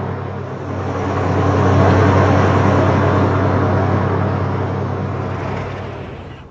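A car driving: steady engine hum and road noise that swells about two seconds in and then fades away toward the end.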